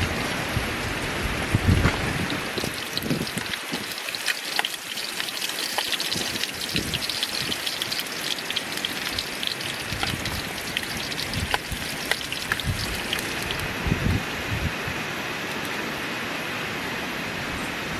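Strong wind buffeting the microphone in low gusts, over a steady hiss full of small crackling ticks.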